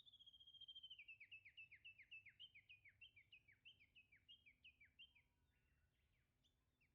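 A single songbird singing faintly: one held, steady whistle, then a quick series of downward-sliding notes for about four seconds, with a stray note or two near the end.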